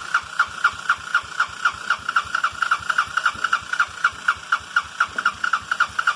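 Electric starter cranking a cold Honda 200cc single-cylinder engine, turning it over in an even pulse of about four to five compression strokes a second without it catching. The starter is released and the cranking cuts off sharply at the end.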